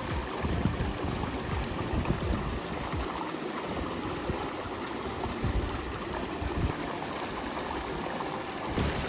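Steady rushing noise with wind gusting and buffeting on the microphone in uneven low thumps.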